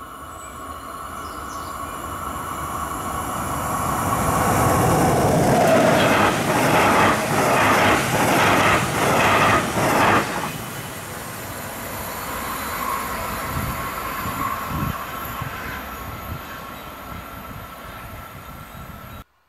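Red double-deck regional train passing at speed on an electrified main line. It grows louder as it approaches, makes a loud rhythmic clatter of wheelsets for about four seconds as the coaches go by close up, then fades away. A steady high whine runs underneath, and the sound cuts off abruptly near the end.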